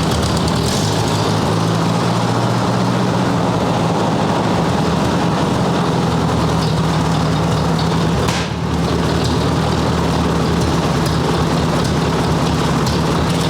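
1958 Ford 851 tractor engine running steadily at idle, driving the freshly rebuilt hydraulic pump while it is bled of air.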